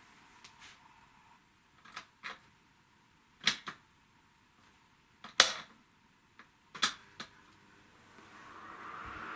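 Sharp clicks and knocks from a Making Oasis Everywhere VF-40PWG electric fan being handled and switched, a few at a time with the loudest about halfway through. Near the end the fan starts up and a steady rush of air builds.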